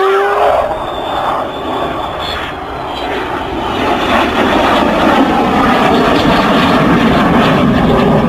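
Fixed-wing aircraft engine noise as a plane flies past at an airshow. The sound is loud throughout, dips slightly, then swells again from about three seconds in and holds.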